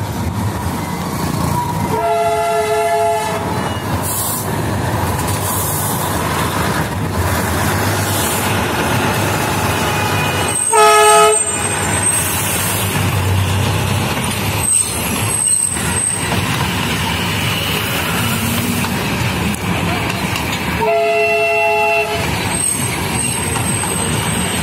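Darjeeling Himalayan Railway narrow-gauge diesel train passing close by, engine and wheels running steadily. Its horn gives three short toots, about a second each and roughly ten seconds apart.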